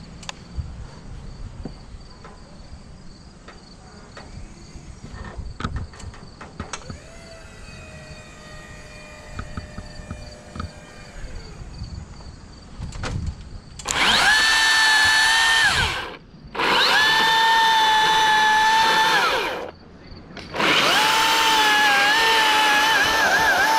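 Chainsaw run in three loud, steady bursts, the first about two-thirds of the way in, with short breaks between them and the pitch wavering under load in the last burst as it cuts dead tree limbs. Before it there are scattered knocks and clatter.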